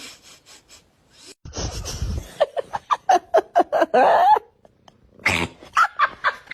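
A cat making a fast run of short, pitched cries, about five a second, after a brief noisy rumble. A second run of cries follows near the end.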